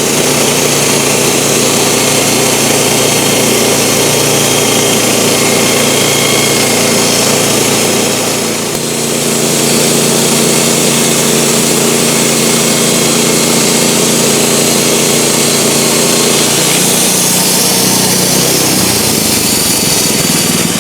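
Sawmill's engine running loud and steady as the blade saws a 10-inch cant into 1-inch boards, with a brief dip about nine seconds in and a change in the engine note near the end.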